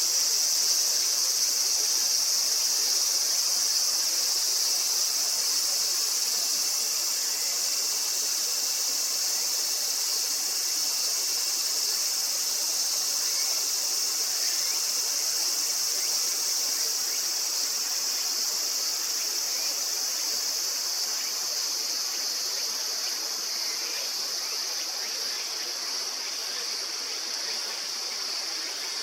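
A steady, high-pitched chorus of insects, easing slightly in the second half, over the even rush of a river.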